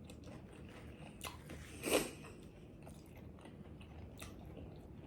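Close-miked mouth sounds of someone chewing and biting into a pizza taco, with many small crunching clicks and one louder bite about two seconds in.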